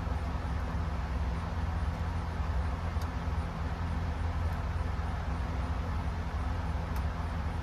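A steady low mechanical drone, like a motor or engine running, with a couple of faint ticks.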